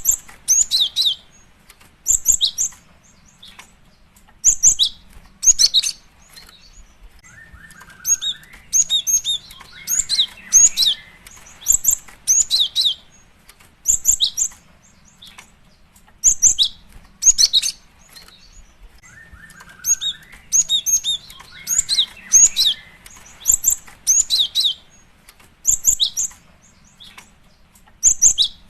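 Female cinereous tit (gelatik batu) calling: short, high chirps in quick clusters of two or three, repeated about every second, with a lower, scratchy downward call twice. These are the calls a female uses to call a male.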